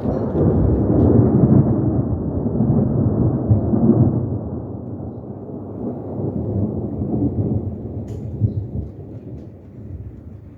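A long roll of thunder: a deep rumble that swells suddenly at the start, is loudest over the first few seconds, then slowly fades away.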